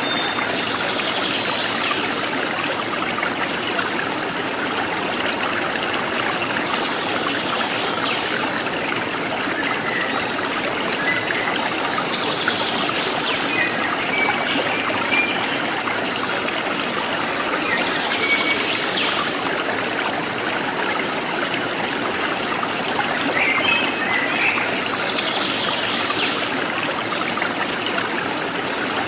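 Stream water trickling and splashing steadily over rocks, with a few short wild bird calls scattered through it.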